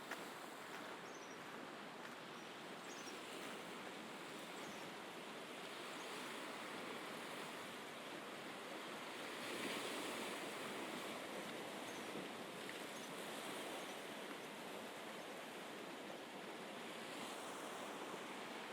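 Mediterranean sea waves washing onto the shore, a steady wash that swells with a larger wave about halfway through.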